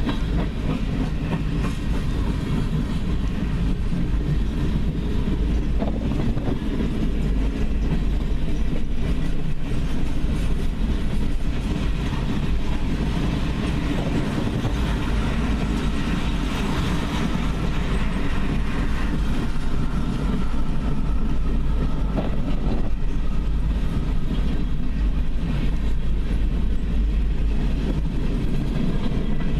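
Freight cars of a long train rolling past steadily, a continuous heavy rumble of steel wheels on rail with some clickety-clack over the joints.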